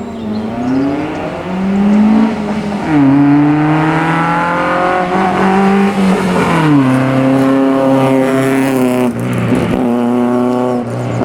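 Ford Fiesta hillclimb car's engine at full throttle, its pitch climbing in quick steps through several upshifts over the first few seconds. The note holds, then drops about six and a half seconds in, and shifts again near the end.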